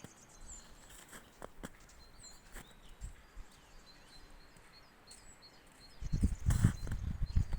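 Small birds chirping faintly, with scattered light clicks. About six seconds in, footsteps close to the microphone begin, heavy thuds at two or three a second, and they are the loudest sound.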